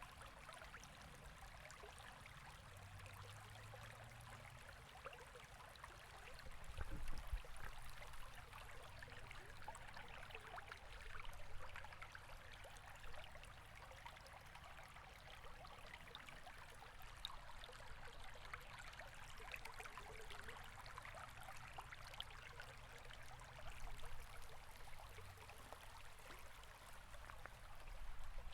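A river flowing, a steady, faint babble of running water. A brief low thump comes about seven seconds in.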